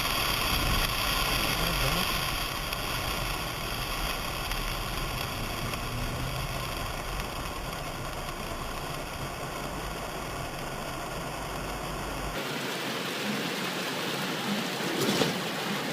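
Steady hiss of rain with a low rumble under it. About twelve seconds in, the sound changes abruptly: the rumble drops out, leaving a thinner rain hiss.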